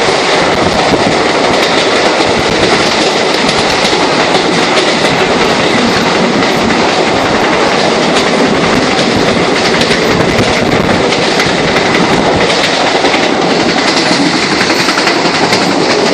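Passenger train running at speed, heard from on board: a loud, steady rush and rumble of the wheels on the rails, with faint clicks scattered through it.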